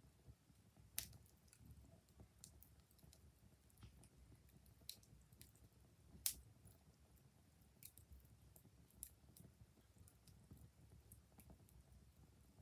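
Wood fire crackling softly: irregular sharp pops and snaps over a faint low rumble, the loudest about a second in and about six seconds in.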